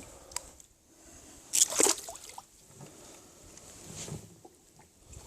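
Water splashing at the side of a small rowing boat, one loud splash-like rush about one and a half seconds in, with small knocks and a softer slosh later.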